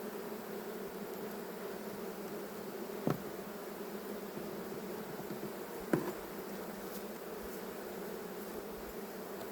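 Honey bees from an opened hive buzzing in a steady hum, with two short knocks about three and six seconds in.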